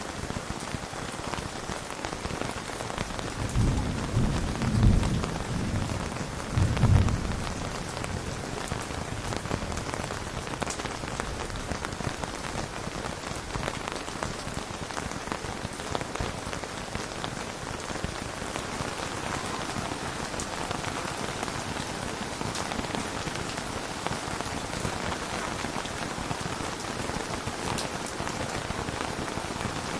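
Steady rain falling, with a low rumble of thunder from about three and a half to seven and a half seconds in that swells twice.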